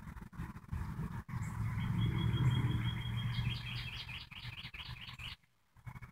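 A songbird singing: a high held whistle, then a quick run of short falling notes, about four or five a second, that stops a little after five seconds in. A steady low rumble runs beneath it.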